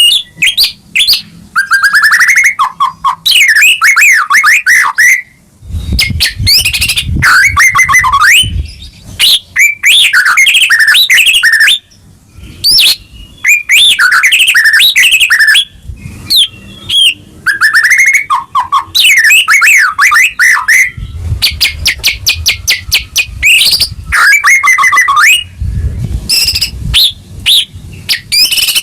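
White-rumped shama (murai batu) singing loudly and continuously: varied phrases of clear whistles, rapid trills and sweeping notes, broken by short pauses.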